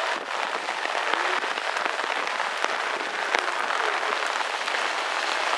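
Steady patter of rain, a dense hiss scattered with small drop clicks.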